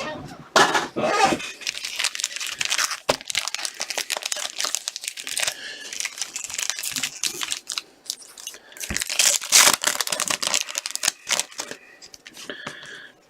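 Hockey card pack wrappers being torn open and crinkled by hand, an irregular crackling rustle with many small clicks.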